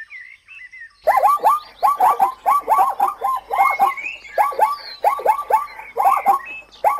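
Zebras barking: a run of sharp yelping calls, two to three a second, each falling in pitch. The calls start about a second in, after a few faint chirps.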